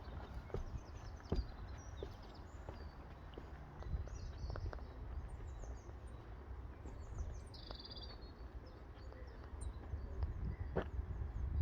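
Small birds chirping and singing, with many short high calls and a buzzy trill about two-thirds of the way in, over a low rumble and a few scattered light knocks.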